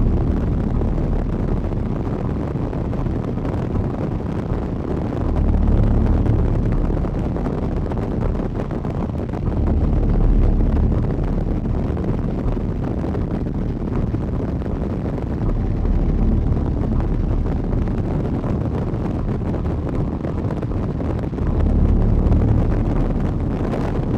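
Strong wind buffeting the microphone: a steady rush with heavier low gusts every few seconds, from the winds of a nearby tornado.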